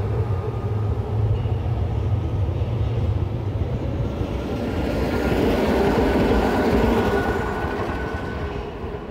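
A train running past, its noise swelling to a peak about six seconds in and then fading away, over a strong low hum in the first few seconds.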